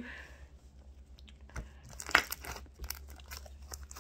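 Homemade shaving-cream slime being squeezed and stretched by hand: irregular soft crackles and little popping clicks, with one sharper pop about two seconds in.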